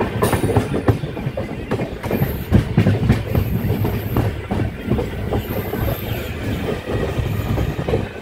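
Express passenger train running at speed, heard from an open coach doorway: a steady rumble of the coaches with rapid, irregular clatter of the wheels over rail joints.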